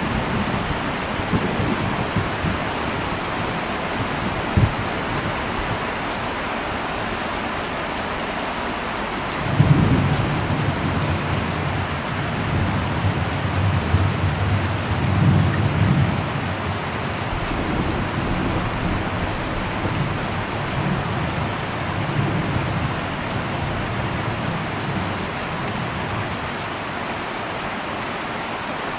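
Heavy rain drumming steadily on an old metal roof. About ten seconds in, thunder starts with a sudden low rumble that rolls on for several seconds and slowly dies away; a single brief thump comes about five seconds in.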